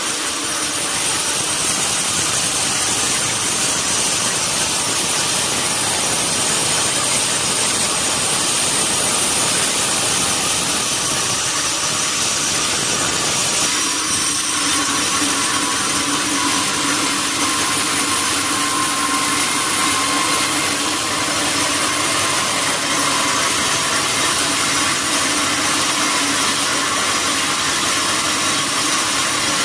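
Sawmill saw running steadily as it cuts a durian log, a loud, even machine noise with a held whine. About halfway through, its tone shifts and a lower hum comes up.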